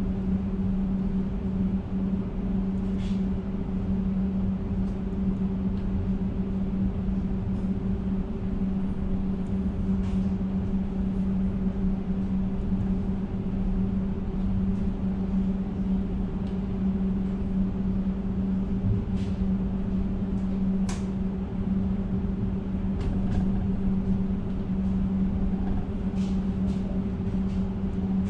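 Passenger train running, heard from inside the carriage: a steady hum over a low rumble, with a few faint clicks.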